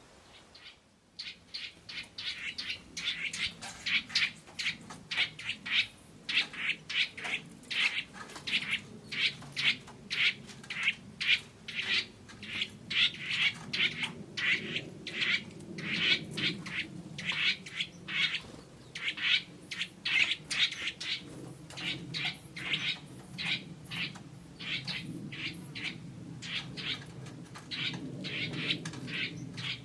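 Forest birds calling: a dense run of short, sharp chirps, about two to three a second, starting about a second in, with a fainter low murmur beneath.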